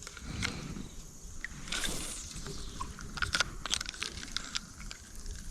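Light clicks and knocks of handling in a kayak, with a brief splash of water about two seconds in.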